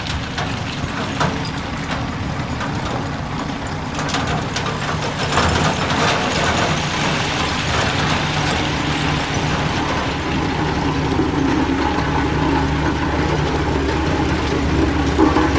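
Heavy diesel engine of earthmoving machinery running steadily. It grows louder about four seconds in, with a spell of clatter and scraping noise, and runs heavier again near the end.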